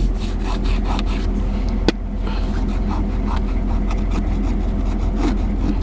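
Chevy 1500's 6.5-litre turbo-diesel V8 running steadily, heard from inside the cab, with a single sharp click about two seconds in.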